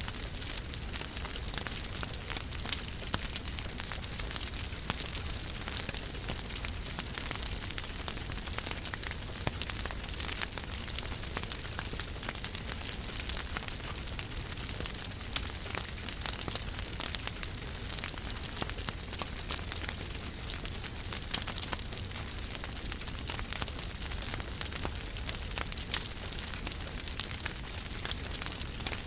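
Wood fire in a fireplace crackling steadily: a dense patter of small crackles over a soft hiss, with three louder pops.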